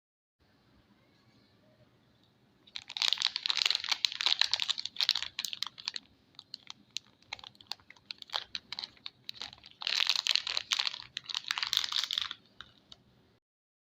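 Crisp crinkling and crackling of soap packaging being handled and unwrapped. It comes in two dense spells with scattered single crackles between them.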